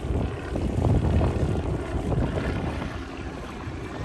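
Wind buffeting the phone's microphone: an uneven, gusty rumble that swells about a second in and eases off near the end.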